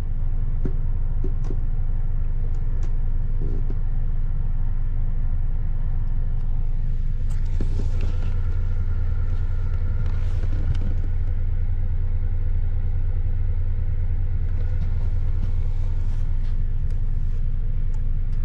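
Steady low rumble and hum of the train, heard inside a Mk3 passenger coach, with a few faint clicks and knocks over it.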